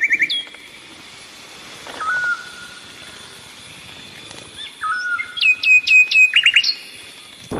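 Wild birds singing: a quick trill at the start, a couple of short whistled notes, then about a second from the end a run of five falling whistled notes and a few quick rising ones.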